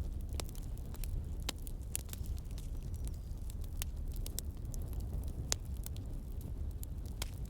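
Campfire burning, with irregular sharp crackles and pops, a few each second, over a steady low rumble.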